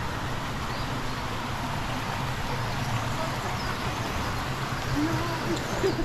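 Steady rushing of falling water from a waterfall, an even hiss with no rhythm, with a brief low wavering sound near the end.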